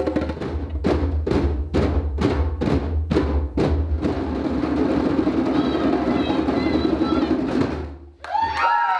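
A drum circle's hand drums played together: a steady beat of about three strikes a second, then after about four seconds a fast, rumbling roll of many drums that stops near the end, followed by a falling, gliding tone.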